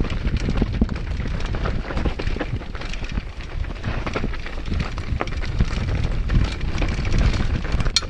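Mountain bike descending a downhill trail: a steady rumble of tyres over dirt with many irregular clicks and rattles from the bike, and wind on the microphone.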